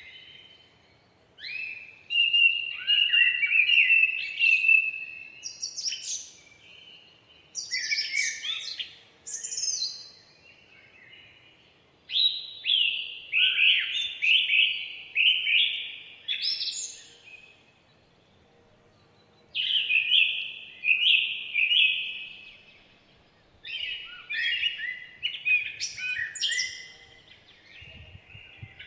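Songbirds singing: phrases of quick, high chirps and trills lasting a few seconds each, with short pauses between them.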